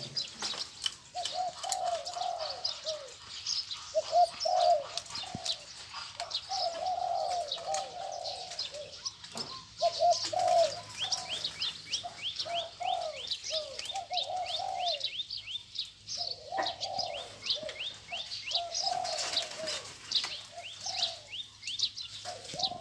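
Spotted doves cooing, phrase after phrase with only short gaps, with high chirps of smaller birds over them, including a fast run of repeated chirps about halfway through.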